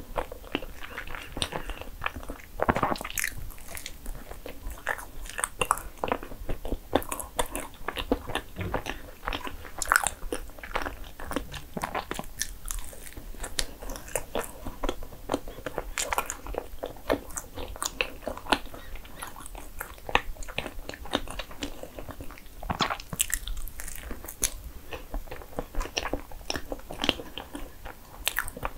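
A person chewing and biting a cream-filled sandwich bagel, with many small wet mouth clicks and smacks throughout.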